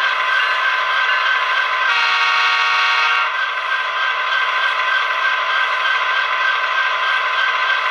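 DCC sound decoder in an Athearn Genesis SD70-series model diesel locomotive, playing a steady EMD prime mover through the model's small speaker, thin with no bass. About two seconds in, a multi-chime air horn sounds once for about a second and a half.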